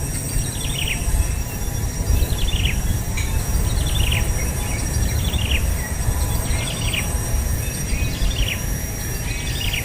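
A bird chirping over and over, about once a second, each call a short falling chirp, over a steady low rumble and a thin steady high tone.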